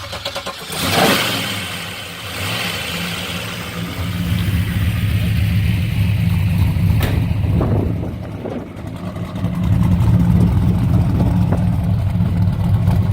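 1977 Z28 Camaro's built 400 V8 with a solid roller cam cranking and catching about a second in with a flare of revs, then running at idle. It grows louder again about nine seconds in.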